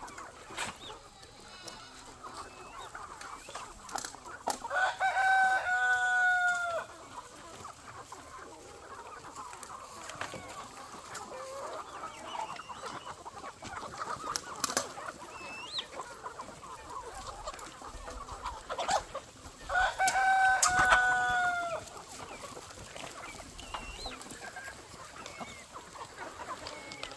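A rooster crowing twice, about five seconds in and again about twenty seconds in, each crow about two seconds long and ending on a long held note, over the steady clucking of a flock of chickens.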